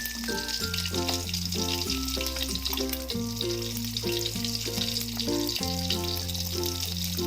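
An egg sizzling as it fries in a pan, a steady hiss, under background music with held bass notes and a repeated chord pattern.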